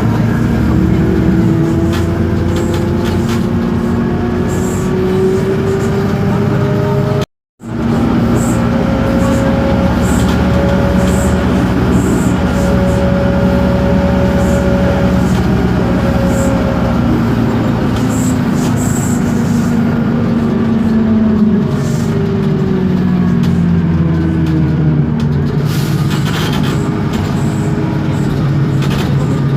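Interior of a moving Isobus City 1200 city bus: its MAN D0836 diesel and ZF Ecomat 6HP504C automatic gearbox running under way, with driveline whines that slowly rise and fall in pitch as road speed changes, over a low rumble and light rattles. The sound cuts out for a moment about seven seconds in.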